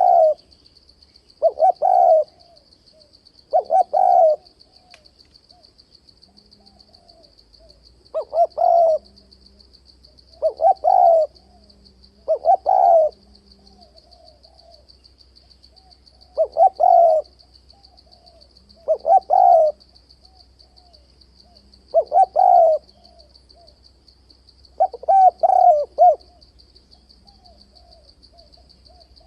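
Spotted dove cooing: about ten loud, separate coo phrases, each of several notes, coming every two seconds or so with a few longer pauses. A steady high trill, like an insect, runs underneath.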